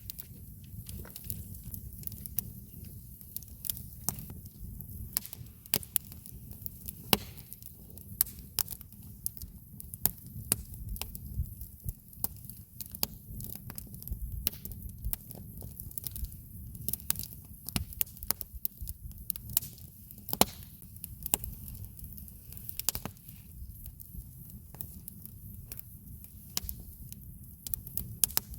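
Campfire wood burning and crackling, with irregular sharp pops and snaps over a steady low rumble.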